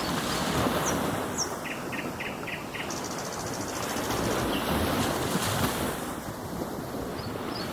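Ocean surf washing steadily, with small birds chirping over it: a few quick high chirps, a run of five short notes about two seconds in, then a fast trill.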